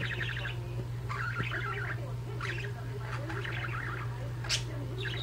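Budgerigars chirping and warbling in short chattering bursts, with one sharp high chirp about four and a half seconds in, over a steady low hum.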